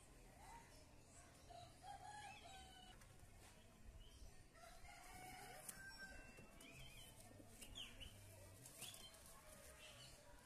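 Near silence with faint bird calls: short chirps scattered throughout and a few fainter longer calls.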